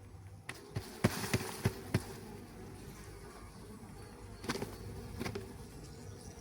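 Honeybees buzzing in a steady hum in an open hive. Several sharp clicks and knocks, most of them in the first two seconds and two more later, come from the wooden hive parts being handled.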